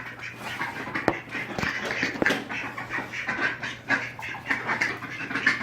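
A group of ducks quacking and chattering in quick, overlapping short calls, with a few sharp taps about a second and two seconds in.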